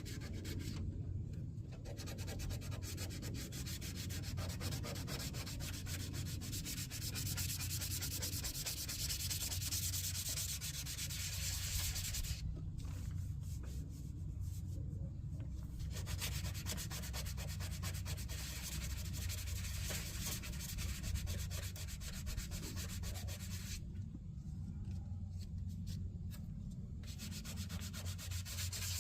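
Sanding on car body work in a Nissan 300ZX engine bay: a dense scratchy rasp over a steady low hum. The rasp stops three times for a second or a few, while the hum carries on.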